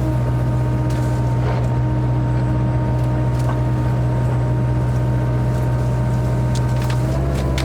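Kubota KX121-3 mini excavator's diesel engine running steadily with a hydraulic whine, the pitch stepping up slightly near the end as the hydraulics take load.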